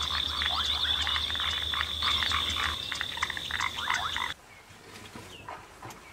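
A dense chorus of shrill, rapid animal chirps and squeaks over a steady high-pitched whine. It starts suddenly and cuts off abruptly after about four seconds.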